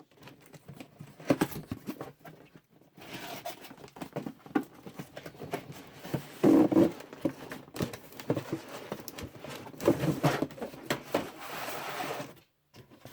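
Cardboard box being opened and its packaging handled: irregular scraping and rustling, with a few sharp knocks.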